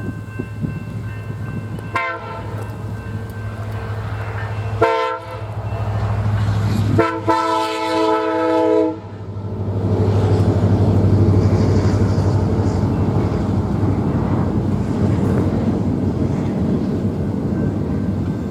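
Diesel locomotive's multi-note air horn sounding three blasts, two short and then one held about two seconds, over the hum of the engine, followed by the steady rumble of the train running past.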